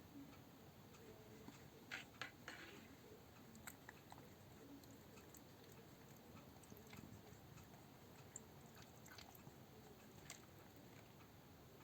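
Near silence: room tone with a few faint, short clicks and taps, a small cluster of them about two seconds in and single ones later.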